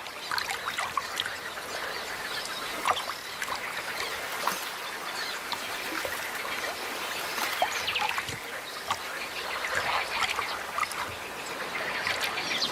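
Splashing and trickling water as carp stranded in shallow floodwater thrash about, with many short sharp splashes and birds calling.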